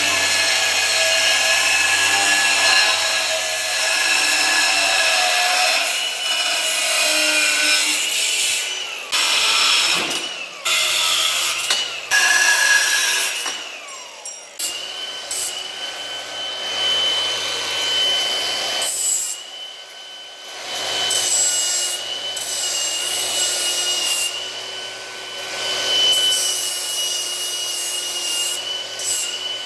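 Milwaukee angle grinder running and grinding rusty metal ladder sections of a deer stand down to shiny bare metal for welding: a steady motor whine over a harsh grinding rasp, easing off briefly a few times as the disc comes off the work.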